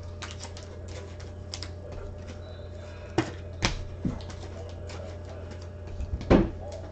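Trading cards and rigid plastic top loaders being handled on a table: scattered light clicks and taps, with a few sharper knocks in the middle and near the end, over a steady low hum.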